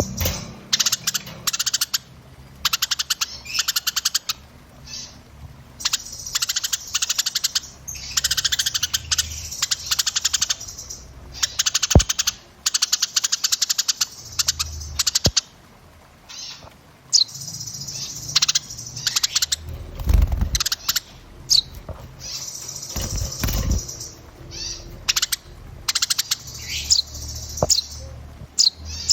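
Small songbirds singing in dense, very fast high-pitched trills and chatters, in bursts of a second or two with short gaps and some short whistled glides in the later part: a 'burcil' (small bird) masteran, a tutor recording used to teach caged songbirds new phrases.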